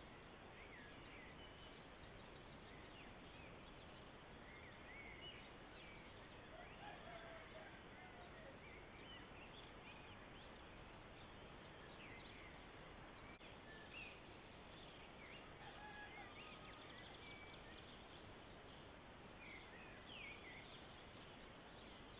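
Faint birdsong from small birds, many short chirps and whistles scattered throughout, over a steady hiss.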